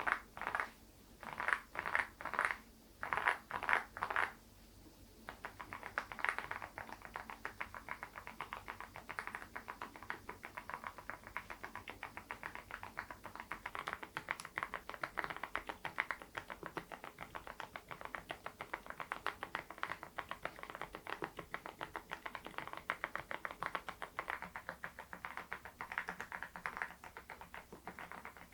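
Typing on a Geekstar GKG87R tenkeyless mechanical keyboard with its stock HMX Sunset silent (low-noise) switches. A few short runs of keystrokes come first, then steady, fast continuous typing from about five seconds in.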